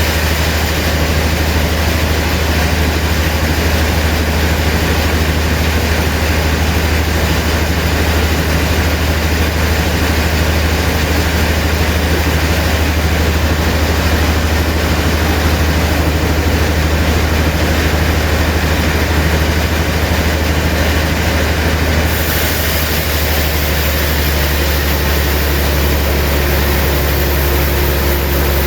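Sawmill machinery running steadily with a deep, constant hum. Its sound shifts slightly about two thirds of the way through, and a faint steady tone joins near the end.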